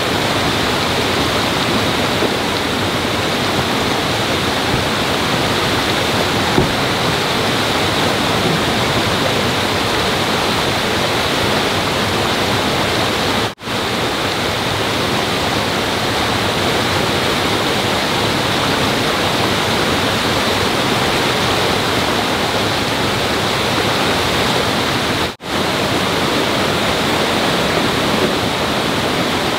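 Steady rush of flowing water, like a stream or small waterfall, broken twice by a brief gap.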